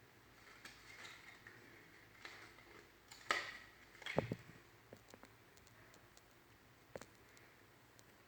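Scattered light clicks and taps from small objects being handled, with two louder knocks about three and four seconds in.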